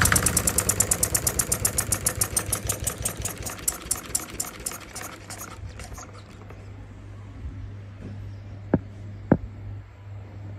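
D16 model diesel engine running with rapid, even firing beats that slow and fade out over about six seconds as the engine runs down and stops. A low steady hum remains, with two sharp clicks near the end.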